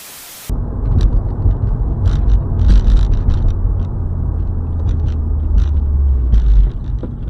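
A car's road and wind noise picked up by a dashcam microphone: a loud, continuous low rumble with scattered ticks and knocks over it. A brief burst of static-like hiss comes first.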